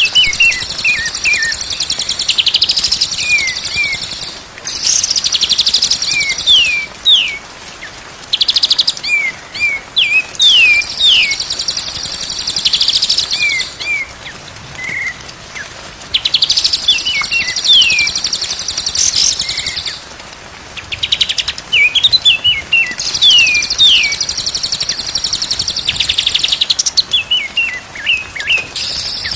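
Recorded songbird song: blocks of very high, rapid, dense trilling alternate with runs of quick descending whistled notes, the pattern repeating every few seconds.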